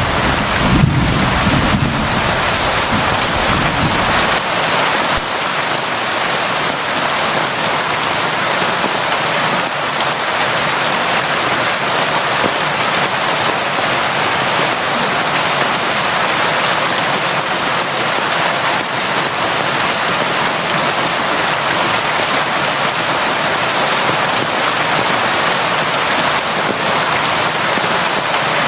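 Steady, constant rain. A low rumble underneath fades out about four seconds in.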